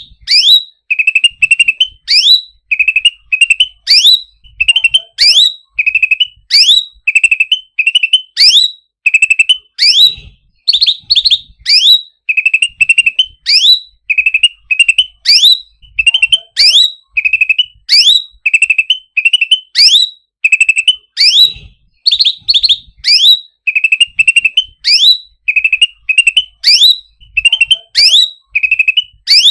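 Cucak ranting songbird calling over and over, about once a second: each call is a sharp note sweeping steeply down in pitch, followed by a short, steadier chirp.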